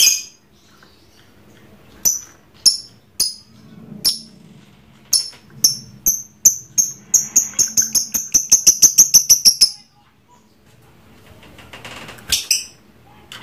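Lovebird giving its 'ngekek' call: shrill, high chirps, spaced apart at first, then speeding up into a fast run of rapid notes that cuts off abruptly. A short burst of chirps follows near the end.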